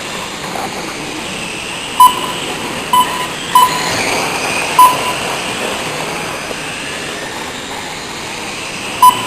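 Race lap-counter beeping five times, short single-pitch beeps as trucks cross the timing line, over the steady rising and falling whine of the racing sport trucks.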